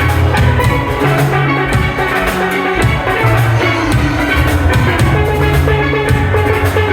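Steel band playing live: steelpans strike a quick melody over steady bass pans, with a drum kit keeping the beat.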